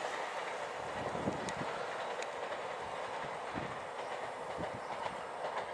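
Steady rolling rail noise of a train's last cars moving away, with a few faint wheel clicks over rail joints, easing slightly in level.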